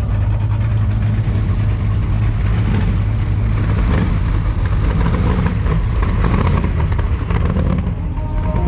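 Car engines running with a steady low rumble as cars cruise by.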